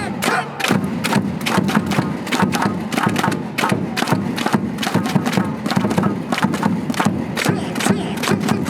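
Baseball stadium crowd chanting a cheer song in unison, over sharp rhythmic beats about four a second from clapping and cheering gear.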